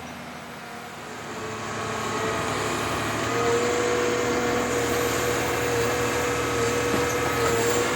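Forestry harvester's engine running as the machine works, growing louder about two seconds in, with a steady whine joining about three seconds in.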